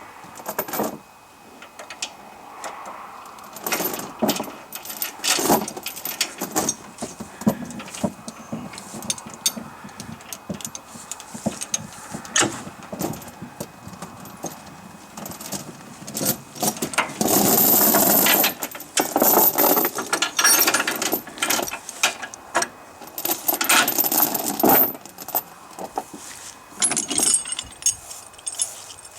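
Steel tie-down chain clinking and rattling as it is wrapped around a tractor axle and drawn over metal, with many scattered sharp clinks and a few longer rattling stretches, the longest about seventeen seconds in and another near twenty-four seconds.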